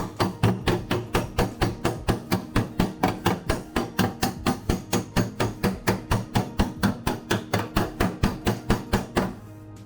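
Hammer striking steel body panel in a steady rhythm of about four blows a second, stopping near the end, with background music underneath.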